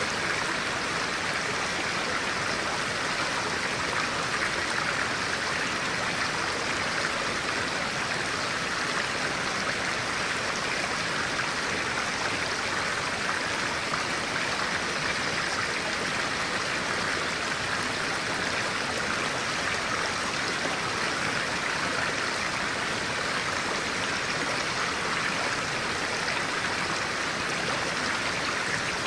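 A stream of clear water running steadily, an even rushing babble with no changes.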